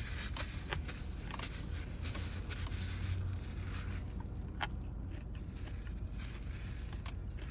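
Quiet eating sounds: chewing with small scattered clicks and rustles, over a steady low hum in the car cabin.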